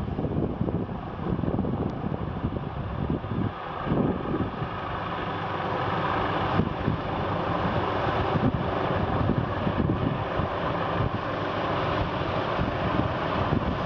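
Helicopter engine and rotor running steadily, with wind buffeting the microphone; it grows slightly louder about halfway through.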